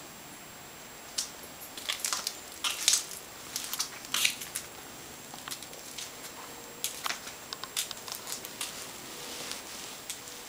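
Irregular clicks, taps and rustling of something being handled by hand, with no engine running.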